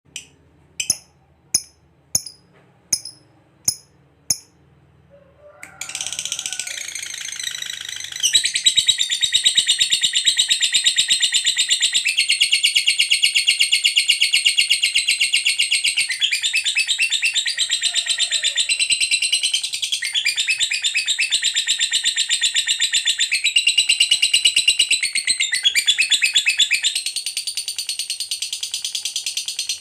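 Lovebird's long chattering song (ngekek): six sharp single chirps about two-thirds of a second apart, then from about six seconds in a continuous, very fast high-pitched trill that runs on with only brief shifts in pitch.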